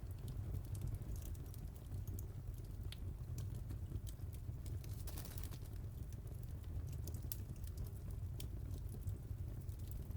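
Fireplace fire crackling: irregular sharp pops and snaps over a steady low rumble, with a brief hiss about five seconds in.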